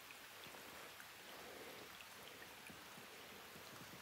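Light rain falling: a faint, steady hiss with scattered soft drop ticks.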